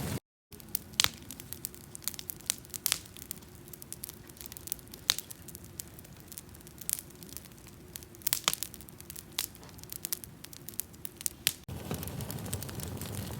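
Wood campfire crackling, with sharp pops going off at irregular intervals over a faint steady hum. Near the end a louder, steady rushing noise takes over.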